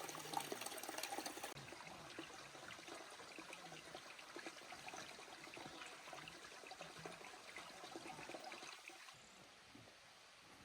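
Faint running water, a trickle or small stream, as a steady splashing hiss. It drops abruptly in level about a second and a half in and again near the end.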